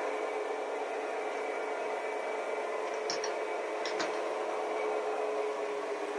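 Sound-fitted O gauge model Class 66 diesel locomotive running on test track, its speaker giving a steady diesel engine hum. Faint clicks come about three and four seconds in.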